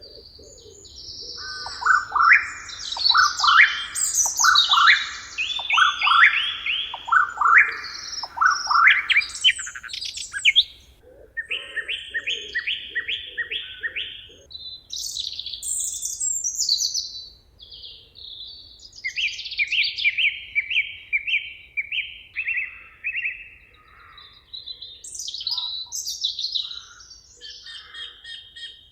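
Several songbirds singing at once: a run of quick falling notes repeated over the first ten seconds, rapid trills, and assorted chirps and short phrases overlapping throughout.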